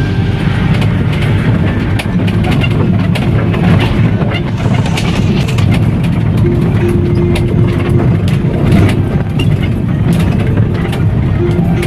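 Motorcycle running along the road, its engine drowned in a loud, steady rumble of wind on the microphone, with scattered clicks and knocks.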